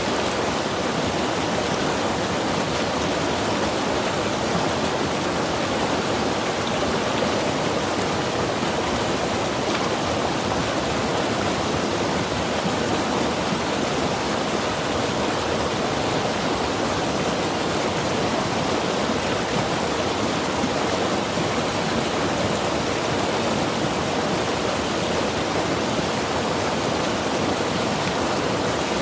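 Mountain river rushing steadily over rocks, a constant full rush of water with no pauses or changes.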